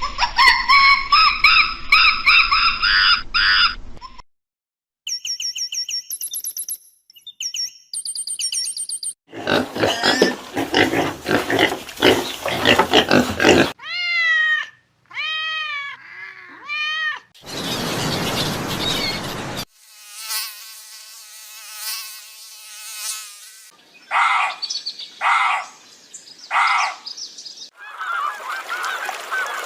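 A series of different animal calls cut one after another, each a few seconds long with brief gaps between them, some pitched and arching, others harsh and noisy.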